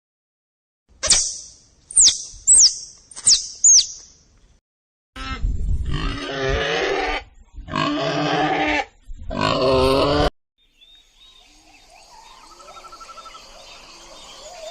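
Five quick, high, falling chirps, then three long, harsh calls from a farm animal, each lasting one to two seconds; these calls are the loudest part. A faint wavering background follows.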